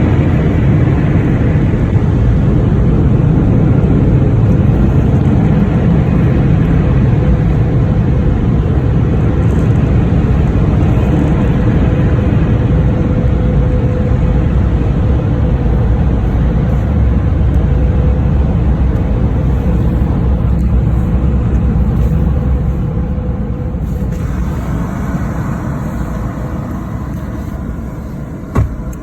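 Automatic car wash working over a truck: a loud, steady rushing rumble that eases off over the last several seconds, with a single knock near the end.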